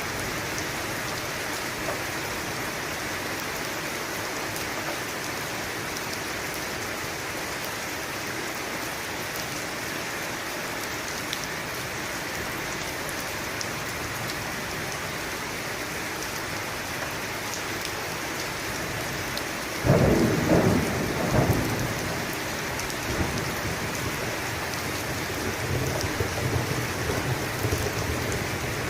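Steady heavy rain falling, with a thunderclap about two-thirds of the way in that breaks suddenly and then rumbles on to the end.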